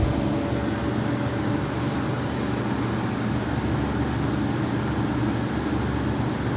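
Steady mechanical hum of a fan or motor running, with a thin steady tone above it.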